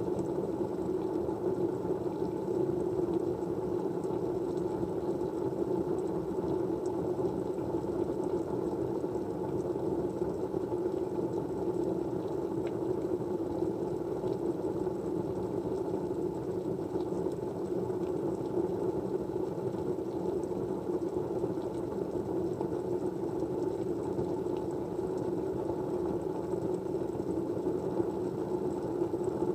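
Steady, even rushing white-noise background, strongest low in pitch, like a fan or running water, with a few faint ticks scattered through it.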